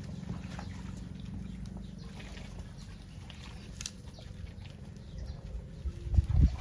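Cattle lowing with a low, drawn-out moo, with a few light clicks, and a loud low rumble about six seconds in.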